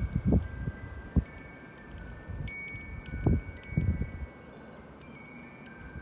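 Wind chimes ringing in a gusty wind, several sustained tones struck at different moments. Short gusts rumble on the microphone.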